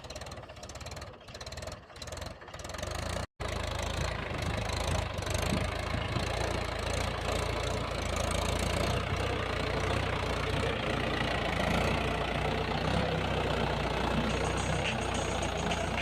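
Tractor engine running steadily while ploughing a field, a low, even rumble. The sound is uneven for the first three seconds and cuts out briefly before the steady run.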